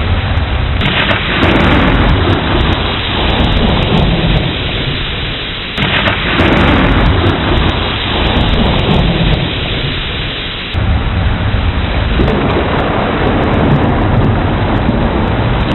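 Steady heavy rain with rolling thunder. A new rumble breaks in suddenly about a second, six seconds and eleven seconds in, and each one slowly dies away.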